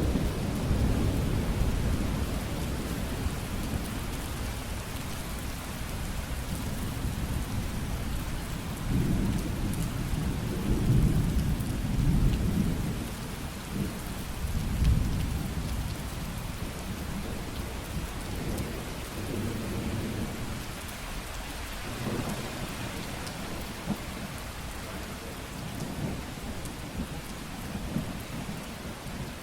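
Steady rain falling, with low rolling thunder that swells and rumbles loudest about halfway through, then fades back under the rain.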